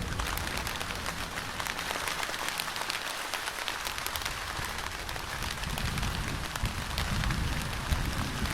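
Steady rain falling, with many close individual drops striking a surface in quick clicks. A low rumble under the rain fades away in the first seconds and builds again in the second half.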